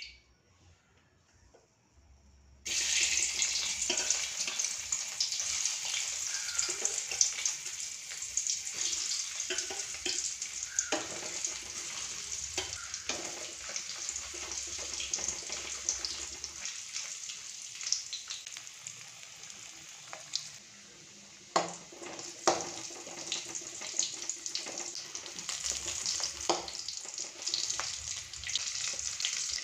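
Marinated chicken pieces frying in hot oil in an aluminium kadai, a steady sizzle that starts abruptly about three seconds in. A metal spatula scrapes and knocks against the pan now and then as the pieces are turned.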